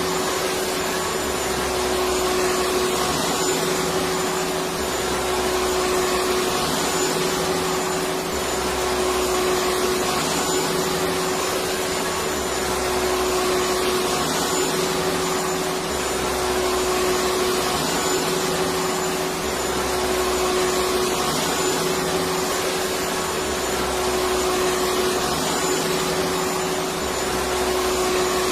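Electric vacuum cleaner running steadily: a continuous rushing whoosh with a steady hum.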